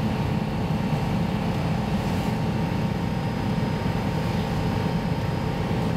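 Steady rumble of a VR Sm2 electric commuter train running along the line, heard from inside the passenger car, with a faint steady hum above it.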